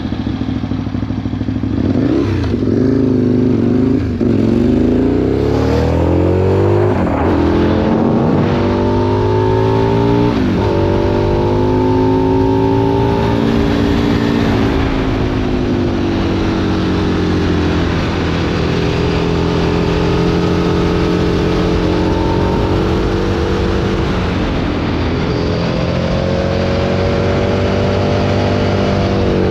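Aprilia Tuono 1000 V-twin with a Remus exhaust, accelerating hard through several quick upshifts, its pitch climbing and then dropping at each shift. From about fourteen seconds in it runs at steadier revs with gentle rises and falls.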